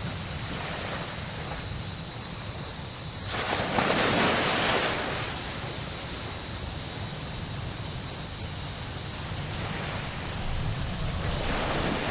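Ocean waves on a tropical beach: a steady hiss of surf with one wave breaking louder about three and a half seconds in and another swelling near the end, over a low rumble.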